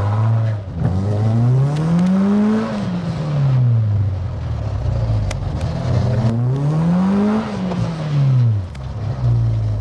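Ford Fiesta hatchback's engine pulling away, its note rising smoothly under acceleration and then dropping back as it eases off, twice, settling to a low, even note in between.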